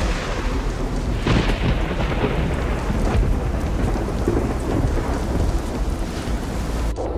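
Storm-force wind gusting with rain, buffeting the microphone in a deep, continuous rumble with surges of rushing noise. The sound changes abruptly just before the end.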